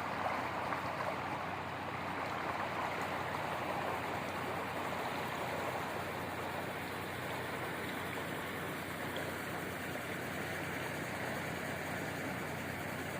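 Steady rush of fast-flowing floodwater from the flooded Withlacoochee River.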